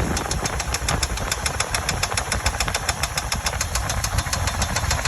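2000 Chevy Tahoe Limited's V8 engine running at idle with a rapid, regular ticking, about eight ticks a second: the unexplained engine noise the owner is asking for help with.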